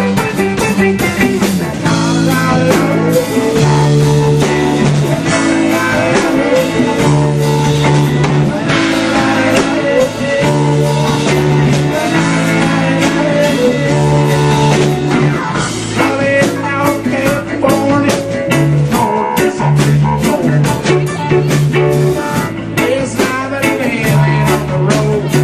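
Live band playing blues-rock, with electric guitar over a drum kit.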